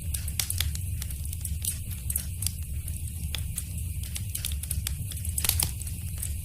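Wood fire crackling in a fireplace: irregular sharp pops and snaps over a steady low rumble of the flames, with a louder burst of pops about five seconds in.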